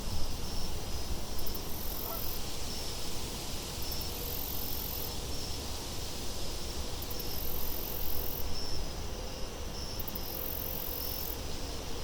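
Wind blowing steadily with a low rumble, with insects chirping over it in short repeated trills every couple of seconds.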